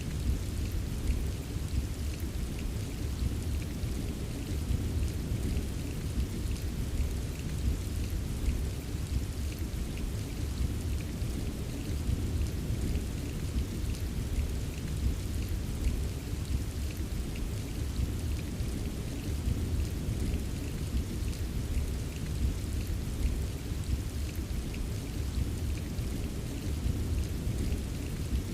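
Steady rain ambience: a continuous deep rumbling wash of rain with light scattered drop patter on top.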